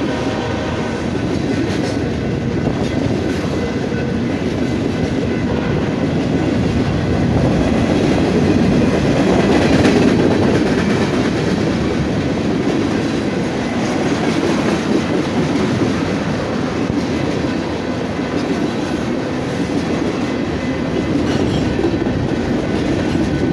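BNSF freight train's cars rolling past at speed, a steady wheel-on-rail noise that grows a little louder about ten seconds in.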